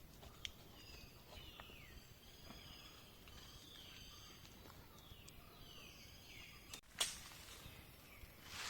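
Faint bird calls in forest: a series of short falling notes repeating every second or so over a quiet background with a faint steady high hum. A single sharp click sounds about seven seconds in.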